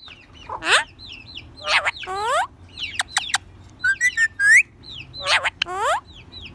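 Indian ringneck parakeet calling: a string of harsh calls and short whistled notes with brief gaps, several sweeping down in pitch, and a quick run of rising whistles near the middle.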